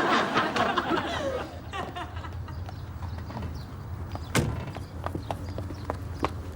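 Studio audience laughter dying away, then a run of scattered knocks and clicks over a low hum, the sharpest about four and a half seconds in.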